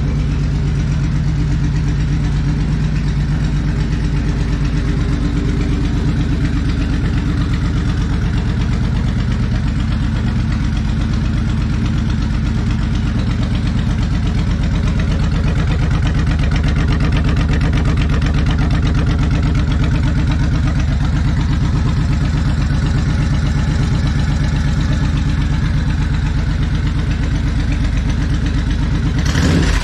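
Suzuki Boulevard C90's 1500cc V-twin idling steadily after a fresh oil fill, run for a couple of minutes to circulate the new oil before the level is checked.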